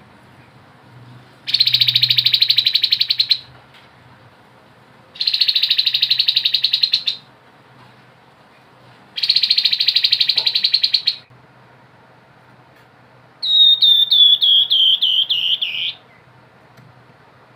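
Grey-headed babbler singing: three fast rattling trills of about two seconds each, a few seconds apart, then a run of about ten quick whistled notes that each slide downward.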